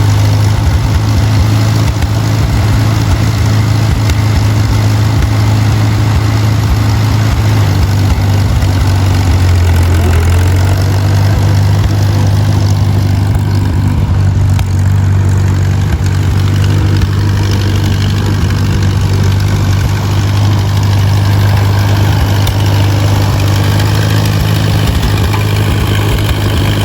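1951 Allis-Chalmers WD tractor's four-cylinder engine running steadily and loudly, its note shifting slightly about ten seconds in.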